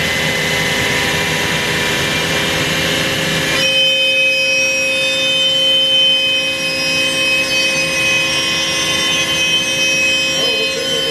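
CNC router spindle running steadily at speed while milling a guitar neck, with a steady high whine. The cutting noise drops away suddenly about a third of the way in, leaving the spindle's steady whine.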